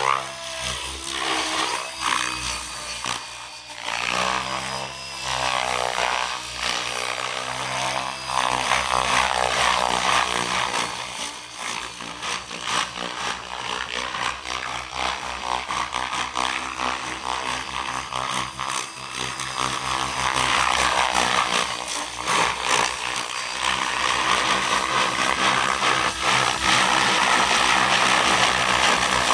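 Soxos 700 electric RC helicopter in flight: the rotor and the Xnova brushless motor's whine run continuously, rising and falling in pitch as it manoeuvres.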